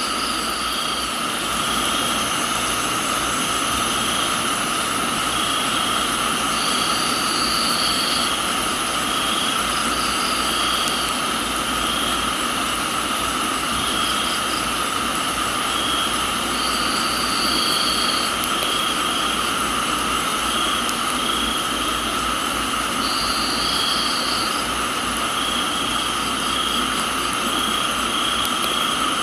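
Steady rain hiss with crickets and other insects in a tropical garden: a continuous insect drone, a chirp recurring about once a second, and a higher trill that comes in a few times, each lasting a second or two.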